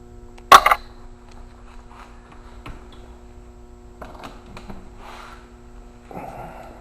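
Workshop handling noises: one loud, sharp clatter about half a second in, then scattered light knocks and clicks, over a steady electrical hum.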